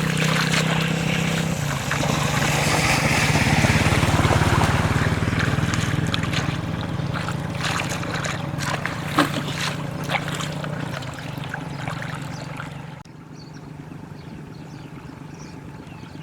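A small boat motor running steadily over splashing water, with scattered knocks. The sound drops away abruptly about thirteen seconds in, leaving a fainter wash of water.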